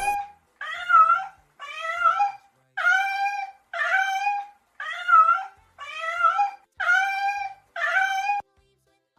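An animal call repeated eight times, about a second apart: short, pitched, near-identical cries, each about half a second long.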